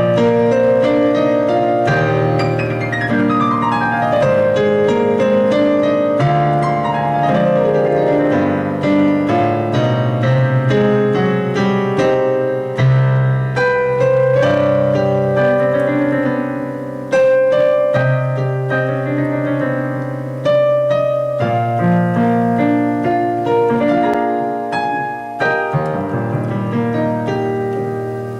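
Background piano music, with flowing arpeggios and a sustained melody.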